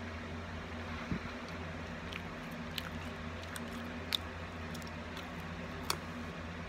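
A person biting and chewing a piece of grilled bread, with a few sharp mouth clicks and crunches, over a steady low hum.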